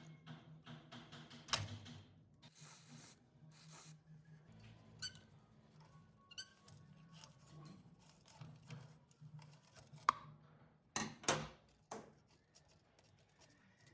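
Workshop handling noises: scattered clicks, knocks and short scraping sounds of tools and fan parts being handled, with a sharp double knock about eleven seconds in, over a low steady hum.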